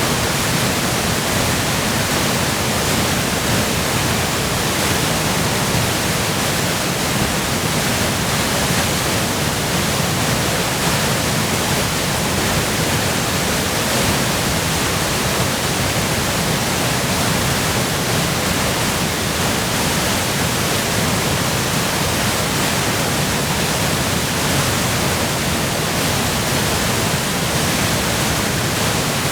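Waterfall in spate from spring melt and heavy rain, a loud, steady rush of falling water with no let-up.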